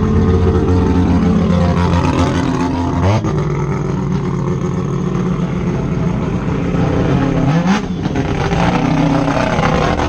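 Car engine idling with a steady low note, revved briefly about three seconds in and again near eight seconds.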